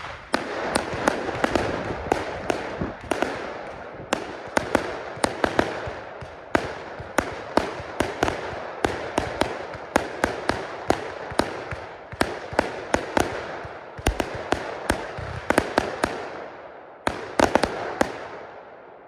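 A 49-shot, 20 mm consumer fireworks cake (Funke 'Weissblinker-Rot Z-1', white strobe and red) firing its shots in a fast string, about two to three sharp bangs a second over a steady hiss. Near the end a last quick cluster of shots goes off, then the sound fades away.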